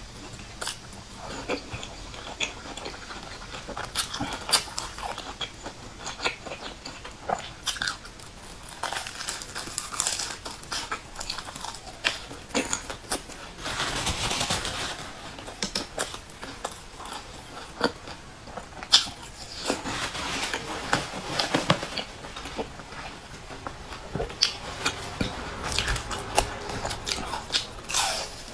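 Close-up chewing and crunching of crusty, crumb-coated fried buns, with irregular crisp crackles and a sharp snap about two-thirds of the way in. Near the end comes a crunchy bite into a biscuit-topped bun.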